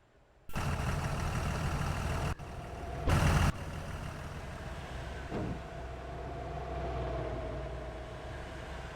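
Truck and traffic noise on a highway: a steady rumble and hiss of engine and tyres that starts abruptly about half a second in, with a short louder burst around three seconds, then settles into a steadier rumble with a faint humming tone.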